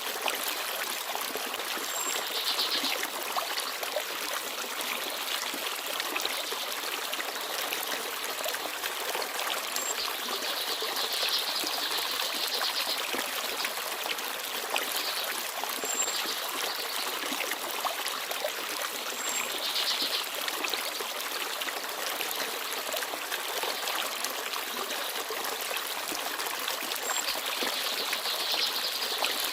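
Small forest stream babbling and trickling steadily. Brief, high bird chirps come through now and then.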